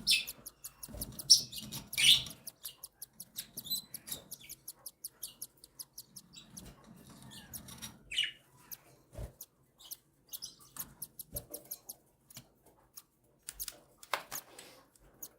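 Cockatiel chicks begging for food while being fed: a rapid run of short chirps, about four or five a second, broken by a few louder, longer cries.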